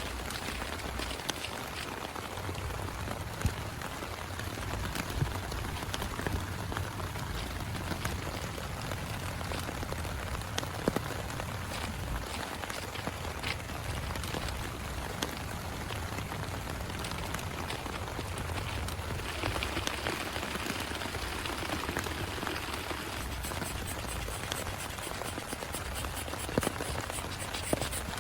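Heavy rain falling steadily, with scattered sharper drops ticking through it.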